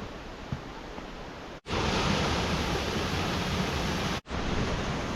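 Steady rushing of falling water from a waterfall, cut off abruptly twice and resuming louder after the first break. A small click about half a second in.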